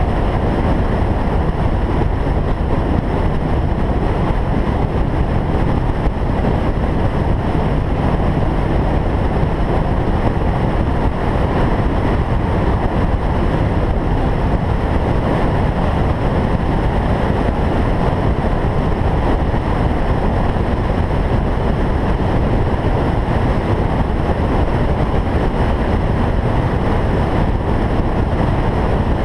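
Single-turbo Toyota Supra driving at a steady pace: a constant, even drone of engine and road noise with no revving or gear changes.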